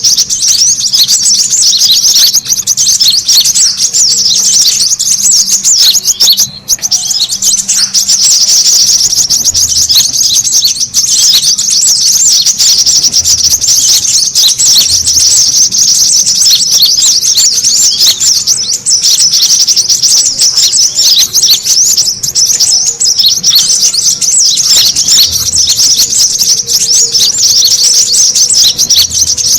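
Brown-throated sunbirds (kolibri kelapa) chattering in a busy, noisy chorus. Rapid high chirps run on without pause, except for one short break about six and a half seconds in.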